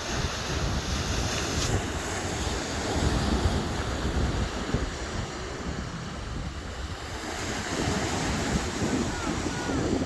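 Ocean waves washing on the shore, with wind buffeting the microphone. The surf swells louder about three seconds in and again near the end.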